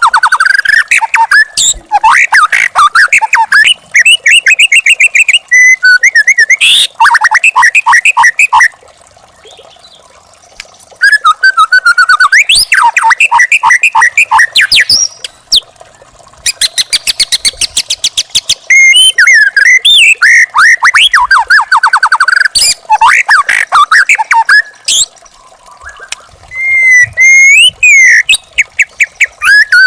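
White-rumped shama (murai batu) singing loud, varied phrases of rapid repeated whistles and chattering notes, with a few short pauses between phrases.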